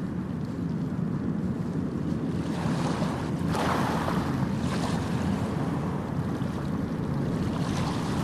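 Ocean waves washing onto a beach over a steady low rumble, with one wave breaking more loudly about three and a half seconds in.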